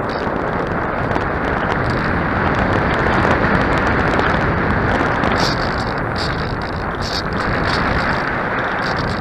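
Steady rushing wind noise buffeting the microphone, with no motor tone.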